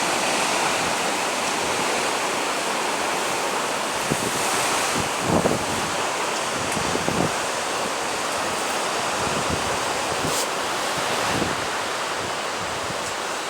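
Sea surf washing steadily, a constant rushing hiss with a few soft low thuds a few seconds in.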